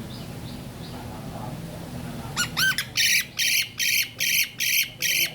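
A bird squawking: a few short rising calls a little over two seconds in, then a quick run of loud, harsh squawks about three a second.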